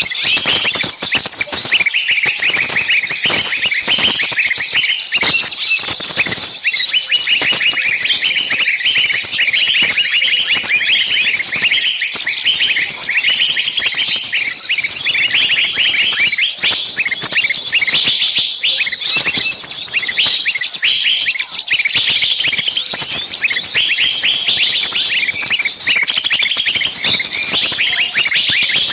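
A dense, noisy chorus of many small birds calling at once, with rapid high chattering and shrill twittering that never lets up. These are agitated, screaming distress-type calls of small birds, the kind a bird-catcher's lure recording uses to draw other small birds in.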